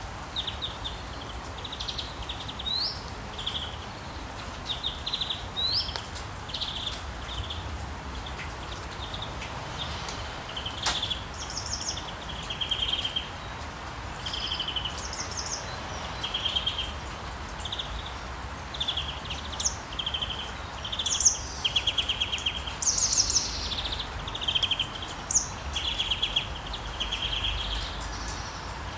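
Rainforest ambience recording: many birds chirping and calling in short repeated phrases and trills, several at once, over a steady background hiss.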